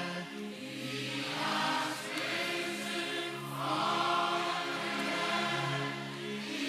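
A choir singing slow, sustained chords in worship, notes held for a second or two and changing.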